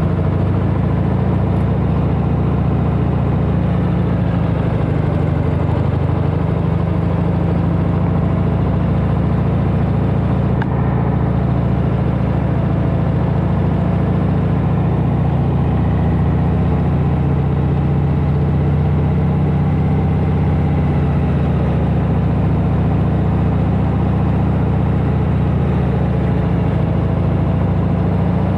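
1992 Harley-Davidson Heritage Softail Classic's 1340 cc Evolution V-twin running steadily under way, its note shifting slightly in pitch as the throttle varies.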